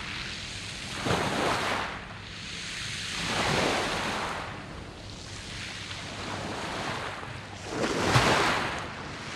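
Surf breaking and washing up a pebble beach of round stones, in three surges: one about a second in, one around three and a half seconds, and the loudest near the end.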